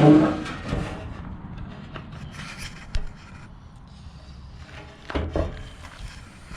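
Rubbing and scraping with scattered knocks and clicks from bumper bracket parts being handled, loudest at the very start and again about five seconds in.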